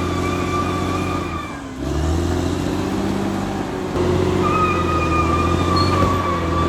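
Caterpillar D6R XL bulldozer's diesel engine running with a deep steady drone and a high steady whine. Just under two seconds in, the engine briefly drops off, then picks back up with a rising pitch. About four seconds in, the whine comes back louder.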